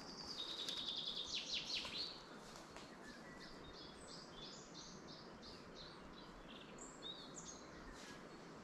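Songbird singing: a loud phrase of quick repeated high notes and downward-sweeping whistles in the first two seconds, then fainter high chirps later on, over a steady background hiss.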